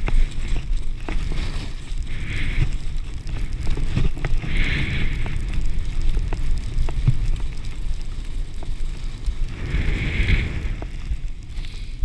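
Wind rumbling on the microphone over the crackling hiss of sliding over snow on a downhill run, with three louder scraping swells as the edges bite into the snow.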